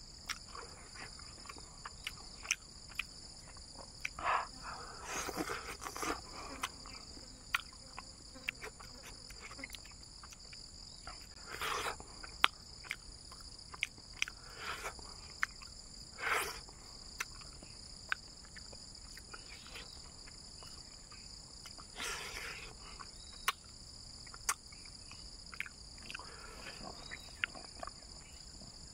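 Close-miked chewing and lip-smacking of a person eating with the hands, sharp mouth clicks scattered throughout and louder spells of chewing about five, twelve, sixteen and twenty-two seconds in. Behind it, a steady high chorus of insects.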